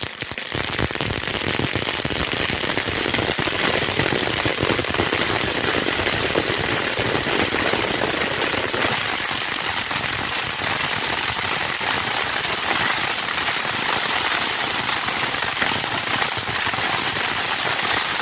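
Firecrackers going off in a fast, dense, unbroken crackle, steady in loudness throughout.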